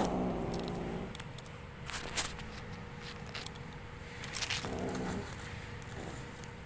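Kitten making odd short vocal sounds while playing: one call at the start and a shorter one about five seconds in, with a few sharp clicks between.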